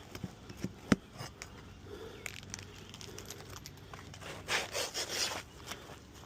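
Asphalt roof shingles being worked loose by hand: scattered sharp clicks and knocks, with a sharp crack about a second in and a short spell of rough scraping and crinkling about four and a half seconds in.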